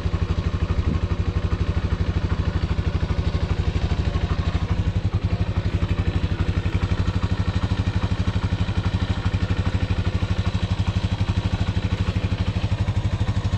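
Small motorcycle engine idling steadily while it warms up after a cold start, with an even, regular exhaust beat.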